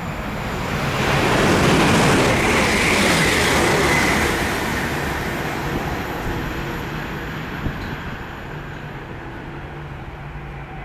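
A train passing at speed: a rush of wheel-on-rail and air noise that builds to its loudest about two seconds in, with a high whine near the peak, then slowly dies away.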